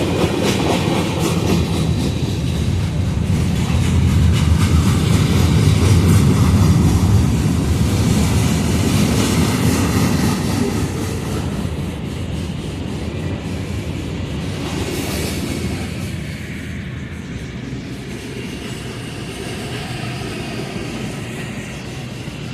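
A mixed-manifest freight train passing a crossing at speed, its cars' steel wheels rumbling along the rails. The rumble is loudest in the first half and eases off after about ten seconds as the train keeps rolling by.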